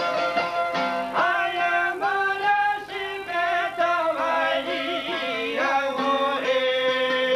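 Albanian folk song: a voice sings a melody with sliding, wavering ornaments over plucked string accompaniment, settling on a long held note about six and a half seconds in.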